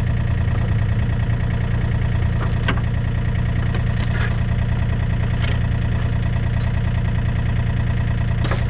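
Engine idling steadily, with a few sharp knocks or taps over it.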